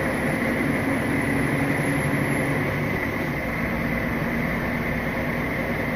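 Articulated lorry's diesel engine running steadily, heard from inside the cab, with road and cab noise.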